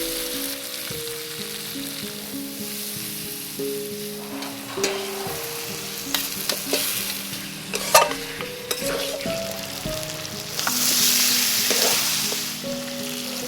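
Chicken frying in a pan with a steady sizzle, broken by clicks and scrapes of a utensil stirring it; the sizzle swells louder for a couple of seconds near the end. Background music plays underneath.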